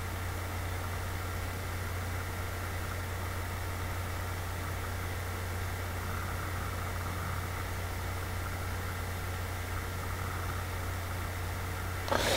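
Steady low hum with a faint hiss behind it, unchanging throughout: background noise of the recording room or equipment.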